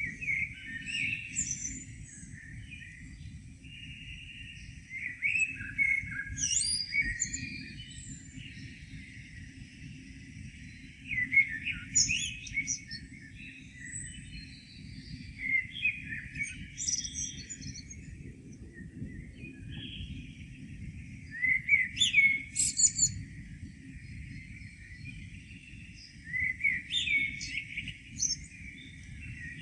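A songbird singing phrases about every five seconds, each a couple of seconds long, with lower whistled notes running into high twitters. A low steady rumble lies underneath.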